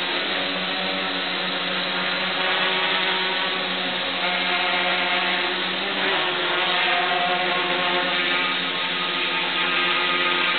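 Electric motors and propellers of an Ascending Technologies quadrotor micro aerial vehicle humming steadily while it hovers, a cluster of steady tones whose pitches wander slightly as the motor speeds are adjusted.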